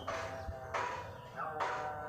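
Bornean shama (murai borneo) singing: short whistled notes with quick downward slurs over held clear tones.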